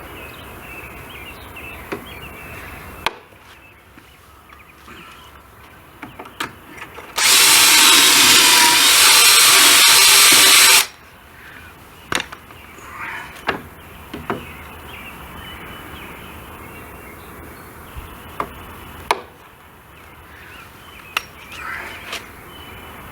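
Power drill boring a pocket hole into a wooden board, running once for about three and a half seconds partway through, with scattered knocks and clicks of the wood being handled around it.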